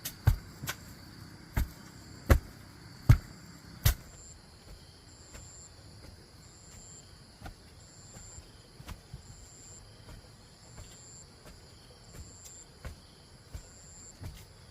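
Sharp knocks, one roughly every half to one second for the first four seconds, then only a few faint ones. From about four seconds in, an insect chirps in regular pulses over a steady high buzz.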